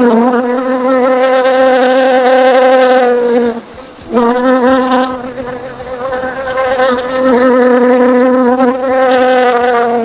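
Flying insect buzzing, a loud, slightly wavering buzz that breaks off for a moment about four seconds in and then carries on.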